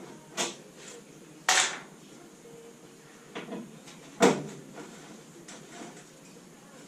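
Hand tools and parts knocking and clattering while a classic Mini's engine is worked on: four separate knocks, the loudest a little after four seconds in, with a longer clatter about a second and a half in.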